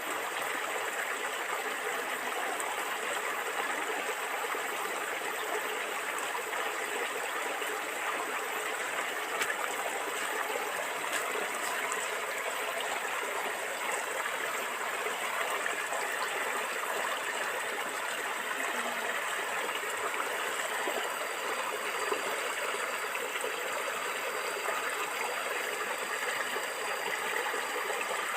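A stream of water flowing and gurgling steadily over stones.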